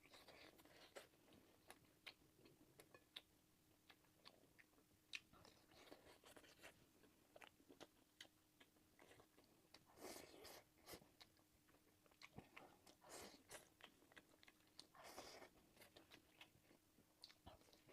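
Quiet, close-miked eating: a person chewing egg fried rice and pork sausage, with many small wet mouth clicks and a few louder chewing bursts about ten, thirteen and fifteen seconds in. A faint steady hum runs underneath.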